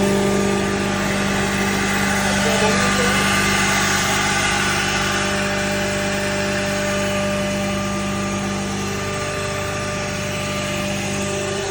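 Woodworking CNC router with its 7.5 kW vacuum hold-down pump running: a steady machine hum with several held tones over a hiss. The lowest tone drops away about nine seconds in.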